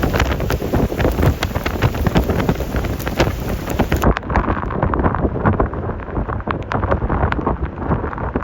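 Strong gusty wind buffeting the microphone: a loud low rumble broken by crackles. About four seconds in, the sound abruptly turns duller.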